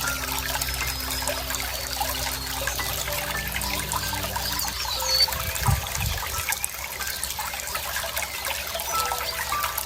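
Running water trickling and splashing steadily, with short bird chirps and whistles now and then. Steady low tones sound beneath it and stop about halfway through.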